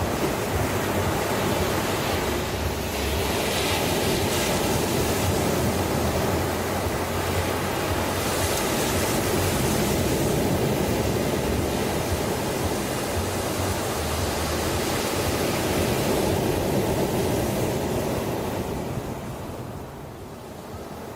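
Ocean waves breaking and washing on a shore, a continuous surf noise that swells and recedes every few seconds, easing off near the end.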